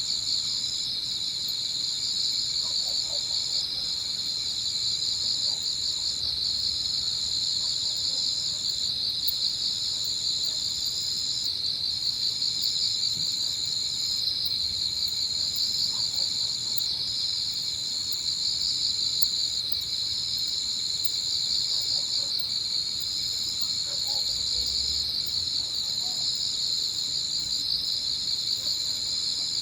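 Dense, steady chorus of crickets and other insects singing at dusk, with one high-pitched singer trilling in long phrases broken by a short pause about every three seconds.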